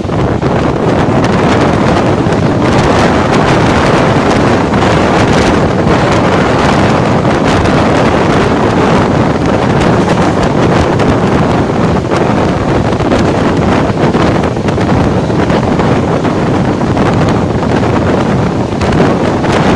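Wind buffeting the microphone from the open door or window of an express train running at speed, over the steady rumble and clatter of its wheels on the track.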